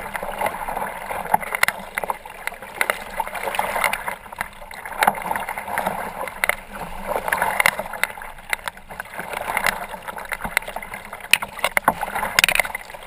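Choppy lake waves splashing and slapping against a kayak, the water noise swelling and fading every couple of seconds with many sharp splashes.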